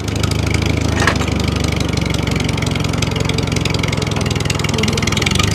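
Tractor engine running steadily at idle, with a rapid, even knocking clatter over a low hum.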